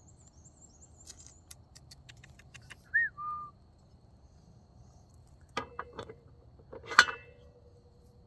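Small metal parts clinking and clanking as they are handled, with a louder clank that rings briefly near the end. A loud two-note whistle comes about three seconds in: a short higher note, then a lower held one.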